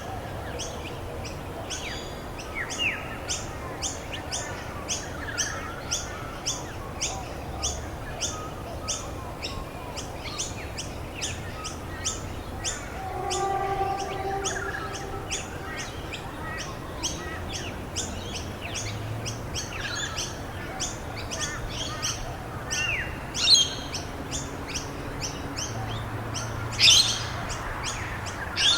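Songbirds chirping: one bird repeats a short high chirp about twice a second while others call in between, over a steady hiss. Two louder calls stand out near the end.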